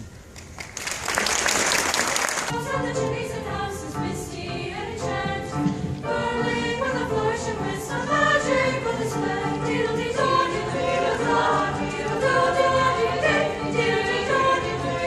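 A brief burst of hissing, clapping-like noise in the first couple of seconds, then a school choir singing together in harmony.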